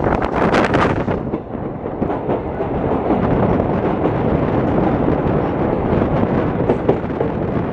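Moving passenger train heard on board: a steady low rumble of wheels on rail and wind, opening with about a second of rapid sharp clatter.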